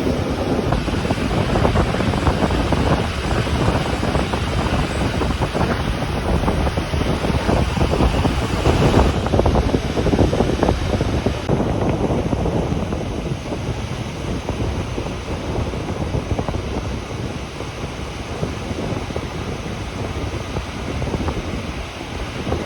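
Regional Rhaetian Railway train running on the Bernina line: a steady rumble of wheels on rail with a rapid, irregular clatter. The higher hiss eases a little about halfway through.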